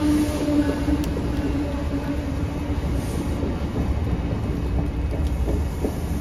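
Passenger train cars rolling past on the rails: a steady rumble of wheels with scattered clacks over rail joints. A low steady hum fades out about two and a half seconds in.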